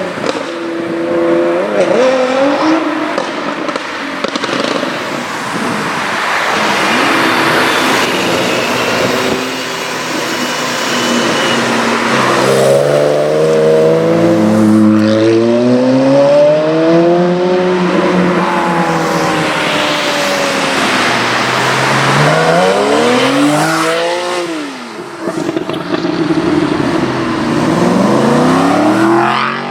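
High-performance car engines accelerating hard: the engine pitch climbs and drops several times as the cars rev through the gears, over loud exhaust and tyre noise.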